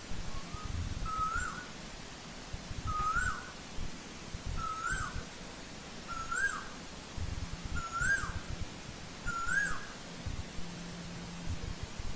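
Asian koel calling: a two-part note that rises and repeats about every second and a half, six times over.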